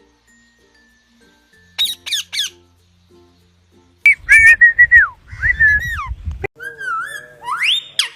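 Parrots calling: three short sharp squawks about two seconds in, then loud drawn-out calls, then whistled notes ending in a rising whistle.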